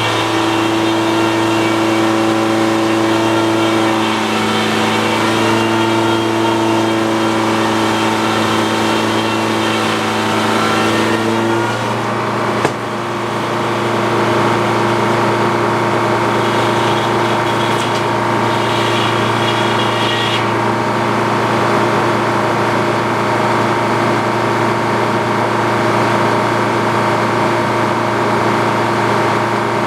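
Antique Frick circular sawmill running steadily under power. For about the first twelve seconds an extra ringing tone rides over the drone, as the blade works through a log. A single sharp knock follows, and the mill runs on steadily.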